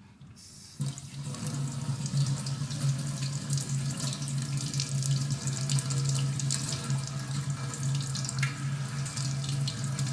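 Kitchen tap turned on under a second in, water running and splashing into the sink, with a steady low hum underneath.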